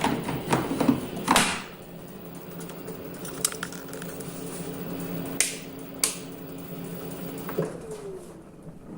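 Washing machine running with a steady motor hum, broken by a few sharp clicks and knocks. Near the end the hum falls in pitch and stops as the motor winds down.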